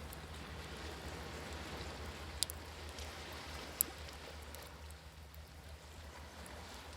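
Campfire crackling, with two sharp pops a little after two seconds and near four seconds, over the steady wash of waves.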